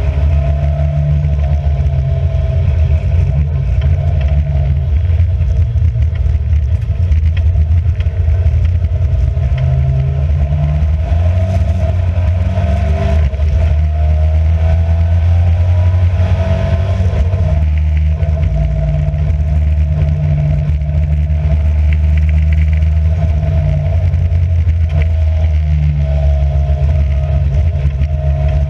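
Race car engine running loud and steady under way, heard from on board; its note holds level for long stretches and rises and falls in pitch around the middle.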